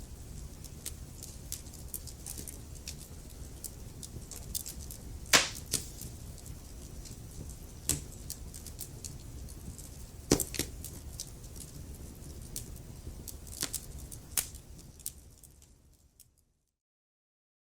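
Wood fire crackling: a steady low rumble of flames with frequent sharp crackles and a few loud pops. About 16 s in it fades out to complete silence.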